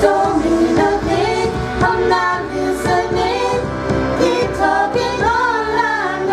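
Singers performing a pop song over an instrumental backing with a steady beat.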